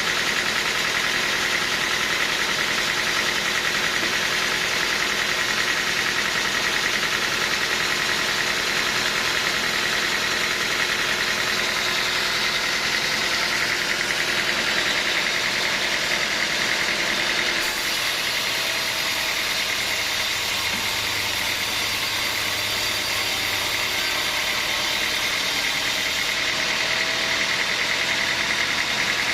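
Sawmill machinery running steadily, a constant mechanical drone with a steady high whine; the sound shifts slightly about two-thirds of the way through.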